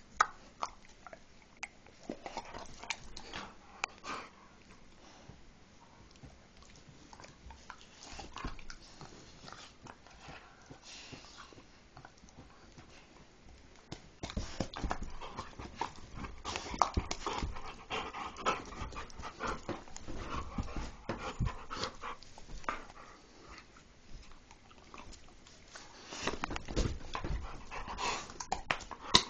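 A dog making close-up sounds, quiet at first with scattered clicks, growing louder and busier about halfway through.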